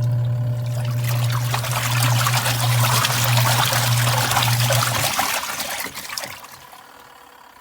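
The Auertech twin-tub washer's electric drain pump running with a steady hum while water pours out through the drain hose. About five seconds in the hum cuts off, and the water trickles away to a stop.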